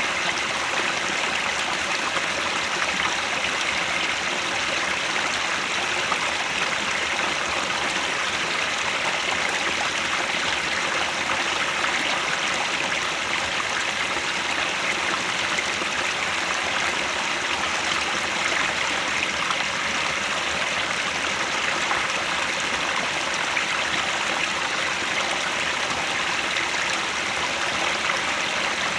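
Headwater stream flowing, a steady, unbroken rush of running water.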